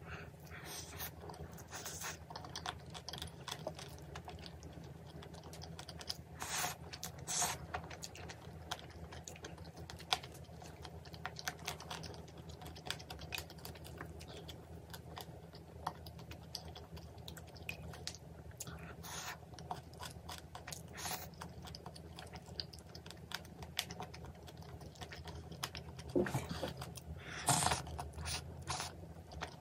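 Close-miked eating sounds: chewing and biting, with many small clicks and a few louder crunchy bursts, over a steady low hum.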